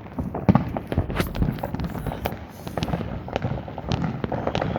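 Consumer fireworks going off in quick succession: a dense, irregular run of bangs and crackling reports, with several sharper louder bangs about half a second and a second in.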